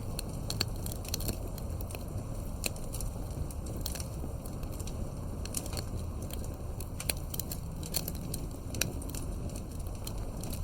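Wood fire crackling, with sharp, irregular pops and snaps over a steady low rumble.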